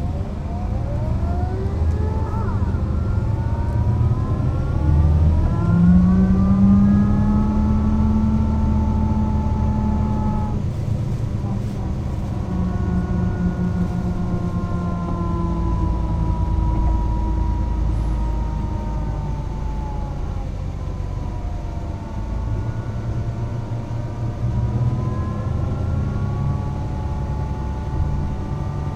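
Mercedes-Benz O 405 NÜ bus driving, its engine and drivetrain running with a low rumble and a whine that rises as it gathers speed. The whine breaks off about ten seconds in, then holds and slowly falls before rising again near the end.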